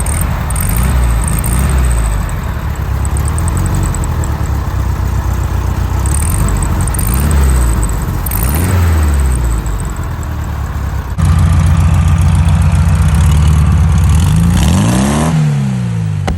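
Air-cooled flat-four engine of a 1973 VW Beetle running through a new EMPI two-tip exhaust, its revs rising and falling several times. About eleven seconds in, the sound cuts suddenly to a louder, steady engine note, which rises and falls once more near the end.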